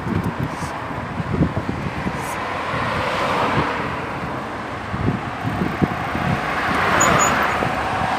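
Road traffic: cars passing close by, one swelling past a few seconds in and another near the end, with wind buffeting the microphone.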